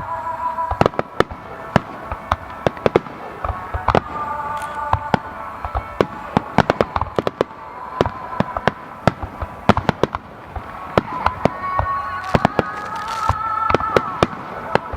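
Aerial fireworks display: a rapid, continuous run of sharp bangs and crackling bursts, many shells going off in quick succession.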